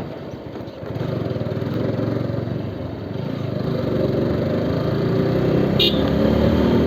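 Motorcycle engine running at low speed. It picks up about a second in and grows steadily louder, with a short high chirp near the end.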